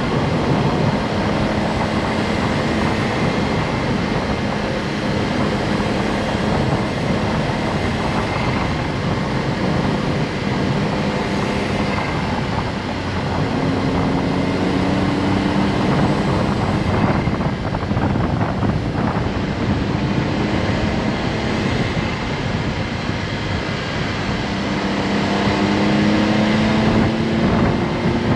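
Honda S660's small turbocharged three-cylinder engine running under way with steady road and wind noise; the engine note climbs slowly twice as the car accelerates, about halfway through and near the end.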